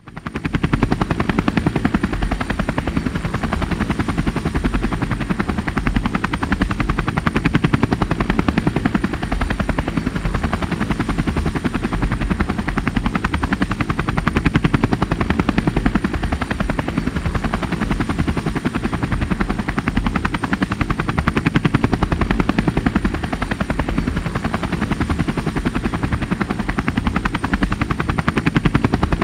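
Marine helicopter flying by overhead: a fast, steady rotor-blade chop that swells and eases slightly several times without letting up.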